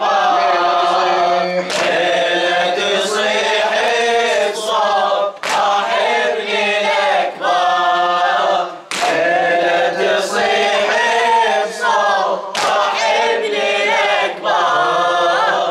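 Voices singing a Shia latmiyya mourning chant, unaccompanied, with melodic lines held over a steady low drone.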